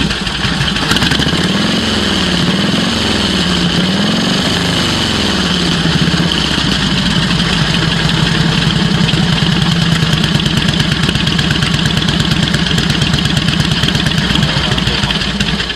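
1946 Harley-Davidson 45-degree V-twin engine running. The throttle is opened and closed about three times in the first few seconds, then the engine settles into a steady idle with the sound that its 45-degree layout gives it. The primary chain is described as really bad.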